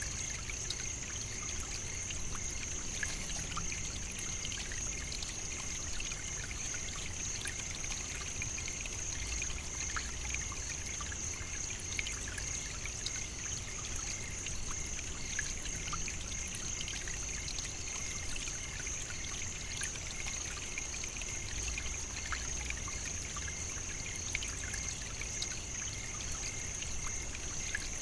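Savannah nature ambience: a steady high-pitched chorus, with a fainter pulsing trill lower down, over a trickling, water-like hiss and scattered faint clicks.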